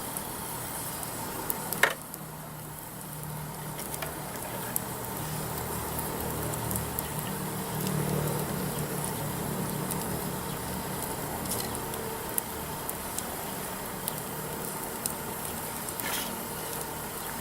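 Wood campfire crackling, with scattered pops and a sharp crack about two seconds in. A low hum swells and fades in the middle.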